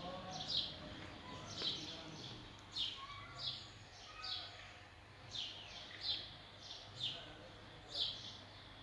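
Small birds chirping: short, high chirps that fall in pitch, repeated about once a second, some in quick pairs.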